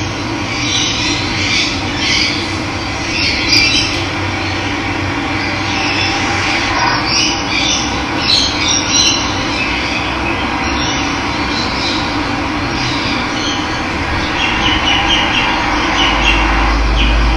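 Running water with a steady rush, with birds chirping and squawking on and off above it. A low rumble comes in near the end.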